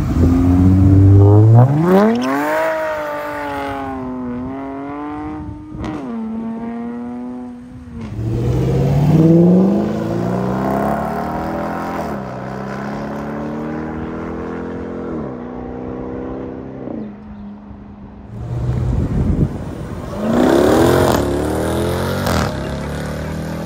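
A Mopar car's engine accelerating hard. Its pitch climbs and then falls sharply at each upshift, with a fresh loud pull about eight seconds in and another near the end.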